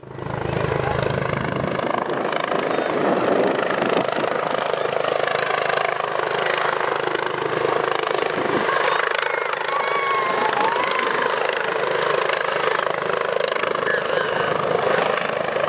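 AirLink helicopter flying close, its rotor and engine a loud, steady noise, with a crowd's voices over it.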